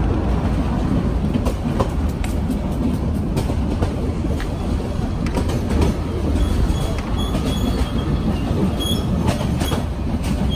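Passenger train running along the track, heard from inside the carriage: a steady low rumble of wheels and coach with irregular clacks and knocks from the rails.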